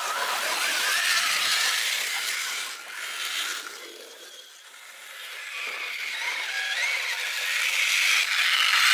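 Radio-controlled mud truck's electric motor and geared drivetrain whining as it is driven, the pitch wavering and the sound swelling, dying down about halfway, then swelling again with the throttle.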